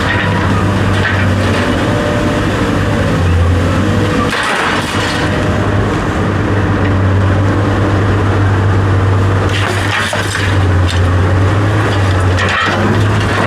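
A steady low motor or engine hum with a few sharp knocks and clatter over it, about four seconds in, around ten seconds in and near the end.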